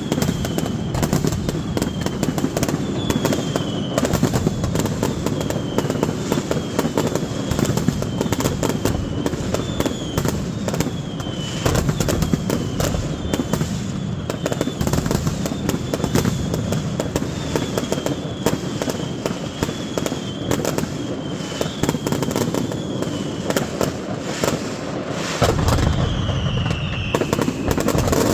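Fireworks display: a dense, continuous crackle of cracks and bangs, with short whistles falling in pitch about once a second. A deeper rumble joins near the end.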